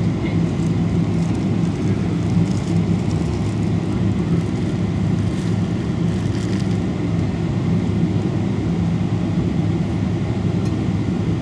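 Steady low drone of a Boeing 777-200's engines and rushing airflow, heard inside the passenger cabin.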